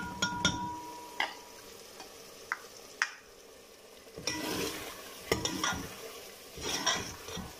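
Meat and tomato masala sizzling in hot oil in a pressure cooker while a steel ladle stirs it, the ladle clinking and scraping against the pot several times; the frying hiss grows thicker about halfway through as the mixture is stirred.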